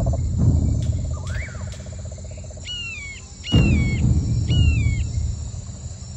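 Birds calling over a steady pulsing insect trill: a rising-and-falling whistle, then three clear downslurred calls about a second apart. The trill stops about two and a half seconds in, and a low rumble of noise starts suddenly about a second later.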